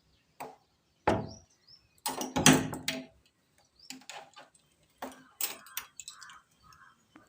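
A door being shut and locked: a series of knocks and metallic clacks, the loudest a couple of seconds in, followed by smaller clicks and rattles of the lock being fastened.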